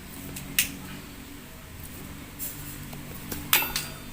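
Metal tools and engine parts clinking against each other. There is a single sharp clink about half a second in and a quick cluster of clinks about three and a half seconds in, over a low steady hum.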